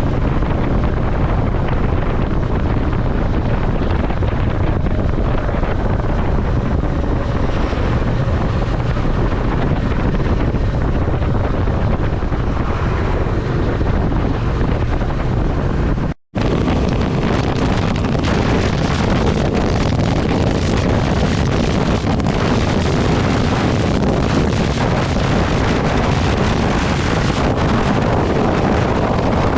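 Wind rushing over the microphone of a moving motorcycle, played back sped up. The noise drops out for an instant about sixteen seconds in, where one ride recording cuts to the next.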